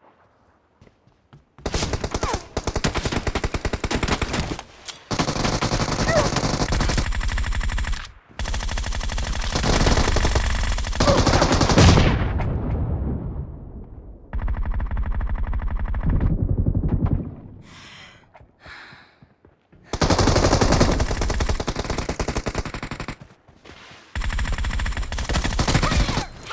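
Automatic gunfire in long rapid bursts of a few seconds each, with short pauses between them; the last pauses are longer.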